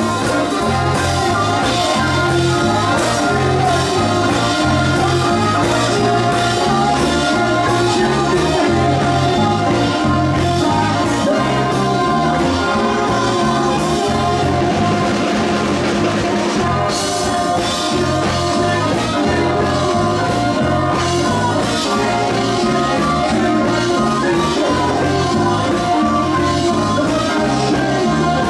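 Live band music: an up-tempo swing-style number with drum kit, a steadily stepping bass line and horns, and a short cymbal-heavy swell about halfway through.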